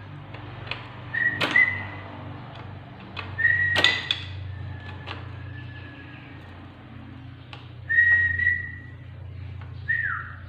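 Whistling in short high notes, four in all, the last one gliding down. A few sharp clicks or knocks fall between them, over a steady low hum.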